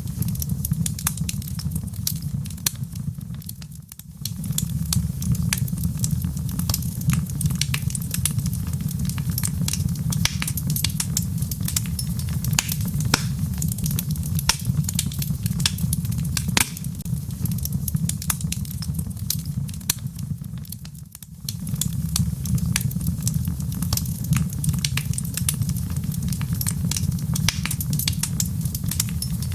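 Wood fire burning in a fireplace: logs crackling with many sharp pops over a steady low rumble of the flames. The whole sound dips briefly twice, about four seconds in and again about twenty-one seconds in.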